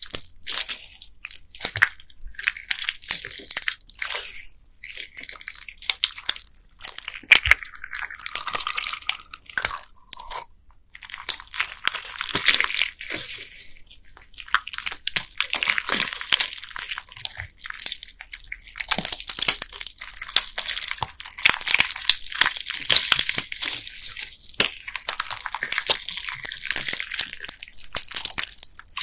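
Bead-filled slime being squeezed and kneaded by hand: dense crackling of many small beads clicking against each other inside the slime, in waves a few seconds long with brief pauses between.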